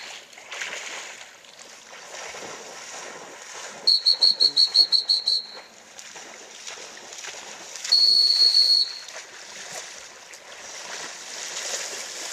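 Dog-handling whistle blown to direct a retriever: a quick run of about eight short toots, then a few seconds later one long blast, over a steady sloshing of shallow water.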